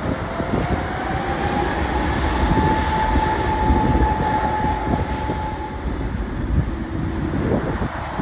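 Aircraft engine roar with heavy low rumble, and a whine that rises in pitch over the first two seconds, holds steady, then fades about six seconds in.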